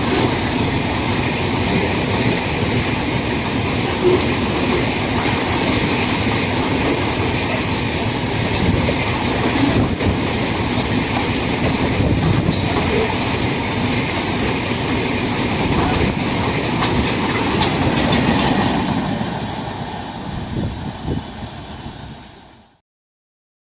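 A train running along the rails, loud and steady, with scattered sharp clicks in its second half; it fades away from about twenty seconds in and then cuts off suddenly.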